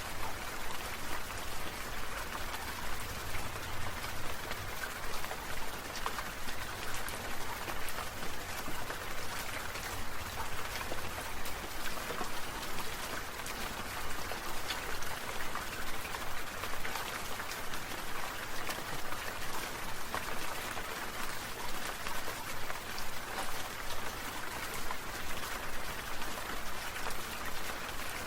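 Water sprinklers spraying: a steady hiss of falling water with a fine, even pulse about two to three times a second.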